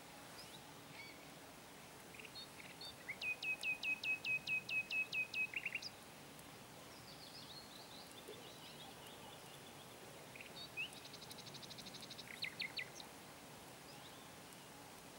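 A songbird singing: a run of about a dozen sharp, identical notes at a steady pace of roughly five a second, then later a faint quick trill and a few more sharp notes, over faint steady outdoor background noise.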